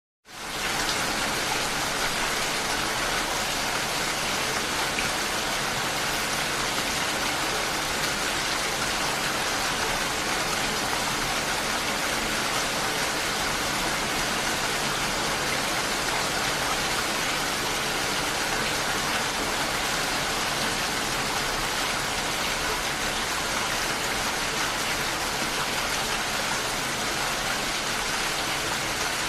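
Steady heavy rain, an even, dense hiss of falling drops. It starts abruptly just after a moment of silence at the very beginning.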